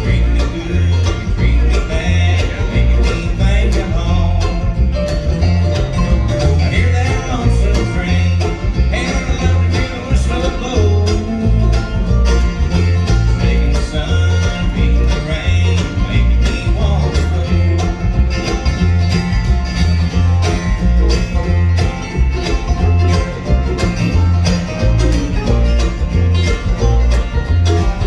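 Bluegrass band playing an instrumental break, with banjo and guitar picking over a steady, even bass beat.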